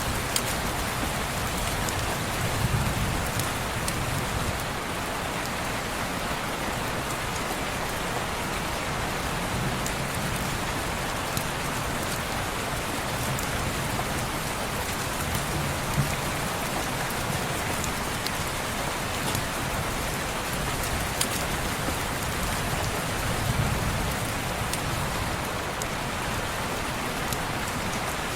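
Steady rain falling on a window pane, an even hiss with scattered sharp ticks and a few soft low rumbling swells.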